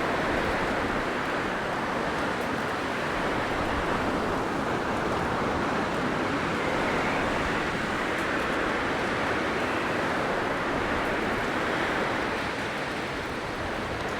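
Blizzard wind blowing steadily, a dense rushing noise that swells and eases gently and dips slightly near the end.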